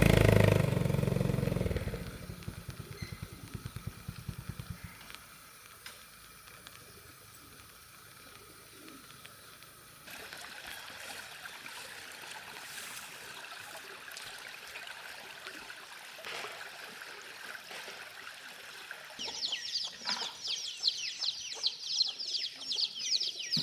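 An engine running that fades and dies away over the first few seconds, leaving quiet outdoor ambience. Near the end, a rapid run of high, falling chirps from birds starts up.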